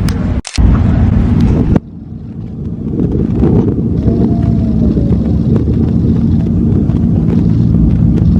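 Outdoor low rumble, like wind buffeting the microphone, steady and loud, broken by two abrupt cuts in the first two seconds.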